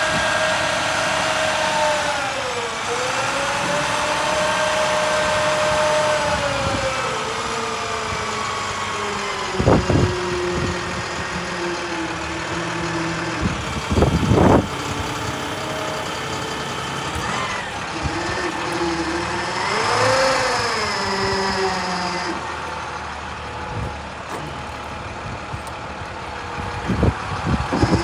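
MaxxForce DT diesel of a digger-derrick utility truck running, with a whine that dips and rises in pitch several times as the engine speed changes. Three sharp clunks break in, one each near the first, middle and last parts of the stretch.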